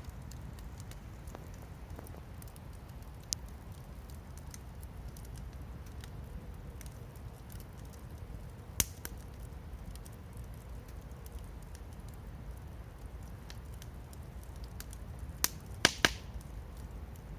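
Wood campfire crackling, with scattered small ticks over a steady low rumble and a few louder pops, one about nine seconds in and a quick cluster of three near the end.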